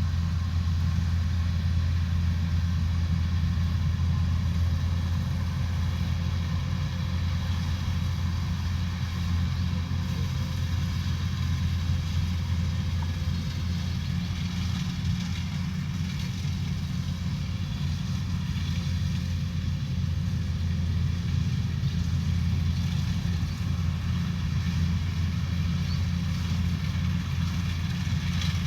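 Combine harvester's engine running steadily, a continuous low hum with machinery noise above it.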